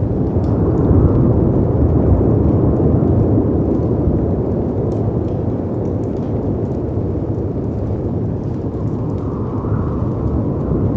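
Low, rushing wind and sea surf that swell over the first couple of seconds and then ease a little, with faint scattered crackles of a wood fire.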